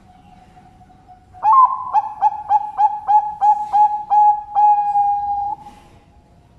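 Zebra dove (perkutut) singing its cooing song: an opening note, then a run of short rhythmic coos about three a second, ending in one longer held coo. It starts about a second and a half in.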